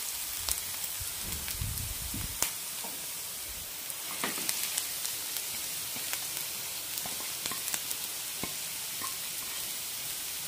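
Chopped onions, garlic and chillies sizzling in hot oil in a nonstick pan, with a steady hiss and the sharp clicks of a wooden spatula stirring. About halfway through, grated cauliflower is tipped onto them from a plate and the sizzling carries on underneath.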